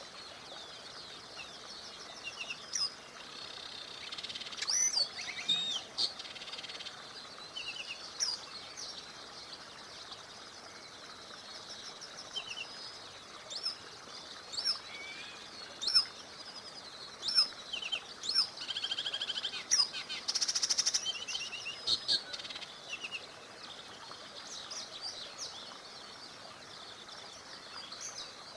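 Songbirds chirping and trilling in short high calls, busiest through the middle, over a steady soft hiss that may be the flowing stream.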